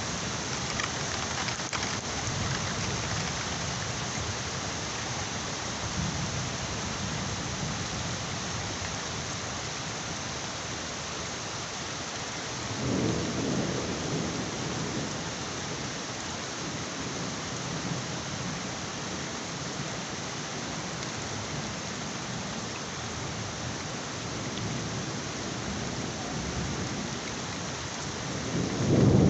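Heavy rain falling steadily, with thunder rumbling: one rumble about halfway through and a louder one building near the end.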